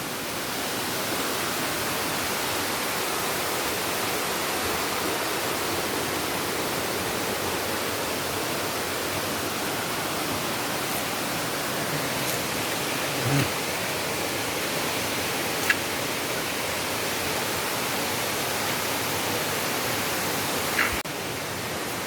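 Steady rushing of a river's water, an even noise with no let-up, with a couple of faint knocks in the middle and a slight drop in level near the end.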